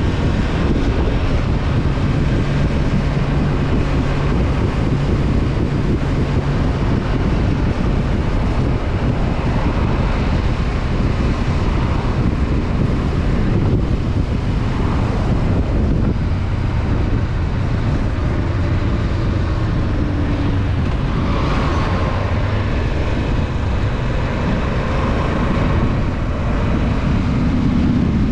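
Honda CB500F parallel-twin engine running steadily under way, mixed with heavy wind rush on the microphone, its engine note shifting a little in pitch now and then.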